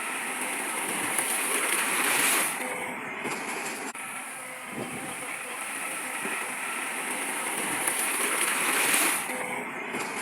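Heavy earthmoving machinery running, a steady noisy mechanical sound with a constant high hiss. It swells to a peak twice, at about 2 s and 9 s, then drops back each time.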